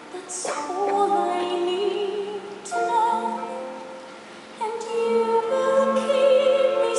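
A woman singing a slow musical-theatre ballad with vibrato on the held notes, over orchestral accompaniment. It is a live concert performance recorded from the audience.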